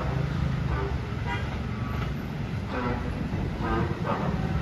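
Low, steady rumble of a passenger train running away along the track after passing through a station, with brief voices over it.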